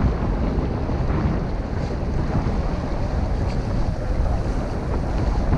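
Wind buffeting the microphone, with water rushing along the hull of a sailboat under sail.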